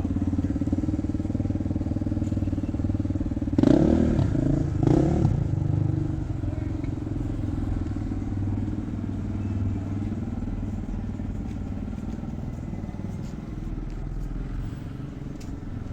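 Engine idling with a lumpy, pulsing beat, blipped twice in quick succession about four seconds in, each rev rising and falling back to idle.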